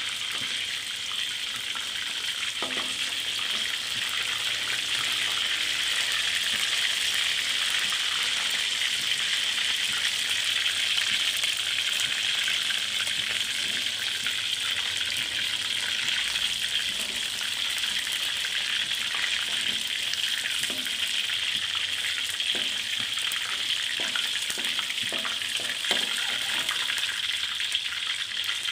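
Chicken pieces frying in hot oil in a wok: a steady sizzle throughout, with a few light clicks.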